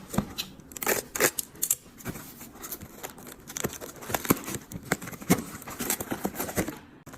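A parcel being opened: packaging tearing and crinkling, with irregular short clicks and rustles.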